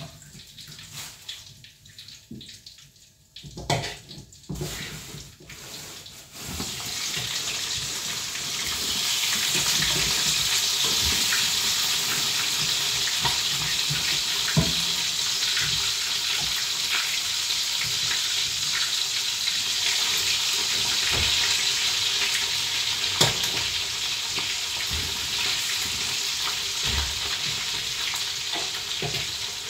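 Chicken frying in hot oil: a few knocks of pan and utensils in the first six seconds, then about six seconds in a steady sizzling hiss builds up over a couple of seconds and holds.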